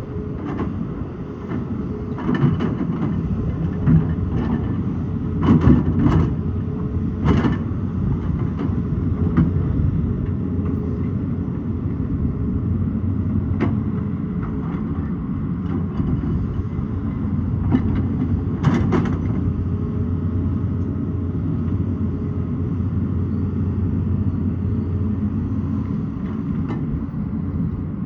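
Excavator's diesel engine running steadily, with occasional clanks and scrapes, several in the first eight seconds and one more a little past the middle.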